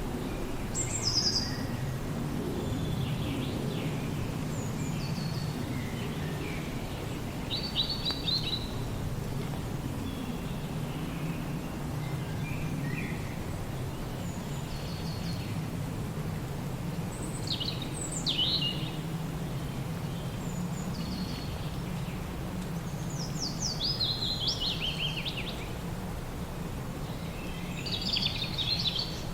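Songbirds chirping: short, quick phrases of falling notes every few seconds, over a steady low rumble of background noise.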